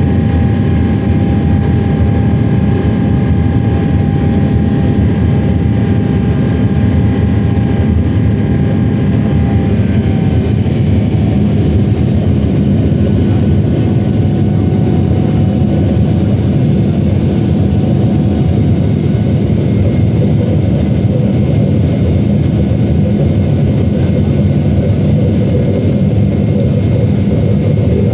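Boeing 777-300ER's GE90 jet engines running, a loud, steady roar with a thin whine that drops slightly in pitch about ten seconds in.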